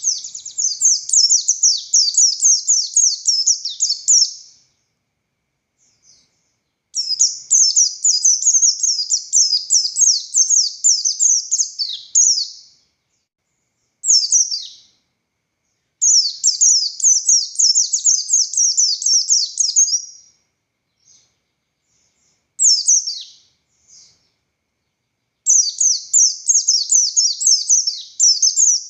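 A pleci buxtoni white-eye singing loud, rapid trilled phrases of high sweeping notes. It sings several long bursts of about four to five seconds, with two short ones in between, separated by brief pauses. This is the intense 'ngalas' song of a bird in full song (gacor).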